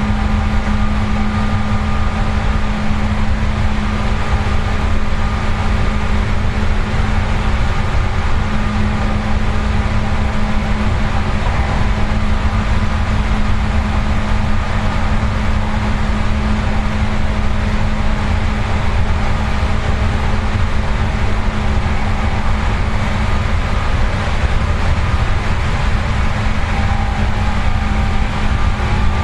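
Seibu 4000 series electric train heard from inside the car, running at a steady speed: a low wheel-and-rail rumble under a constant traction-motor hum.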